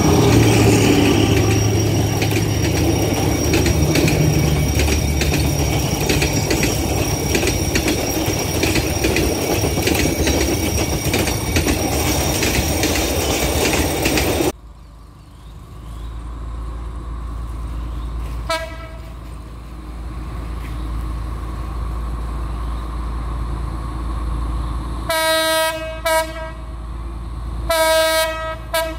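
A passenger train passing close by: steady wheel and rail noise with clicking over the rail joints, which cuts off about halfway through. Then a diesel locomotive approaching with a low rumble sounds its horn: a brief toot, then several longer blasts near the end.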